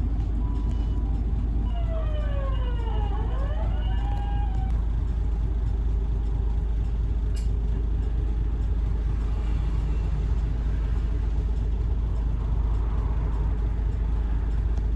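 Inside a city bus under way: steady engine and road rumble, with a whine of several tones that glides down and then back up about two seconds in. The whine is the bus's motor noise, which is out of the ordinary on this bus.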